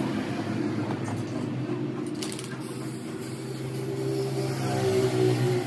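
A motor running with a steady hum, a little louder near the end.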